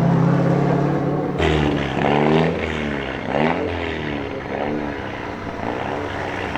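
Race car engine at full throttle on a hill climb. It revs up and shifts again and again, the pitch climbing and dropping in quick arcs, after a steadier engine note in the first second or so.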